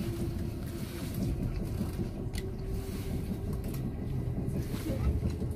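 Steady low rumble inside a train carriage, with a faint steady hum and a few light clicks.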